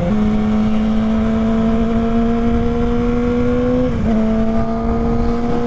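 2016 Yamaha motorcycle engine running under way, heard from the rider's seat, its pitch slowly rising, with a brief dip and recovery about four seconds in like a gear change. Low wind rush underneath.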